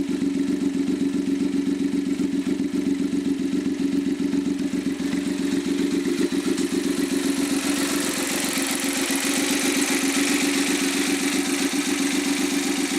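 Suzuki K6A 658 cc three-cylinder engine, warmed up after hours of running on a test stand, running steadily with a fast, even pulse. A steady hiss joins in about halfway through.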